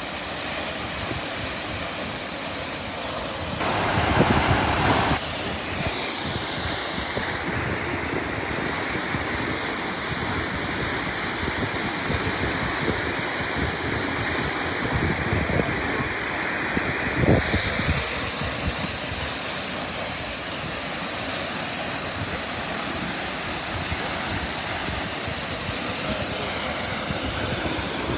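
Water jetting from a sheared-off fire hydrant, a steady heavy rushing like a waterfall, with a louder surge about four seconds in lasting about a second and a half.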